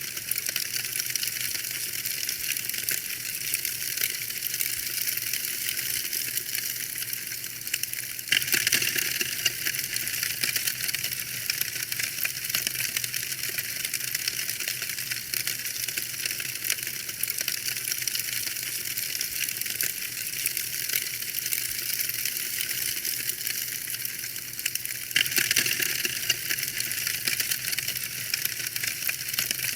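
Wood fire in a fireplace crackling steadily with dense, rapid small snaps and pops, briefly louder about 8 seconds in and again near 25 seconds.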